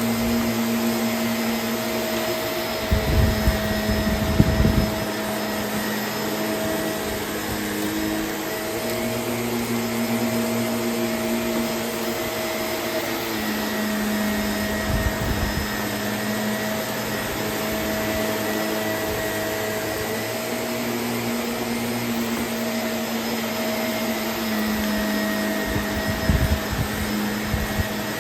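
Vacuum cleaner running steadily, a constant motor hum and airflow rush, picking up a weighted clean-up mix. A few brief low bumps come through about three to five seconds in, around fifteen seconds, and near the end.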